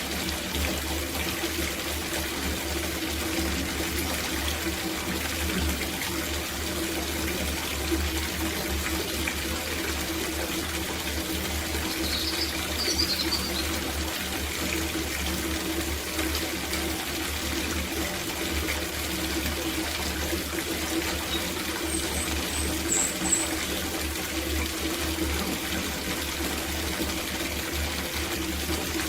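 Water running steadily from a tap into an outdoor copper bathtub as it fills. Two brief high chirps sound over it, a little before halfway and again later.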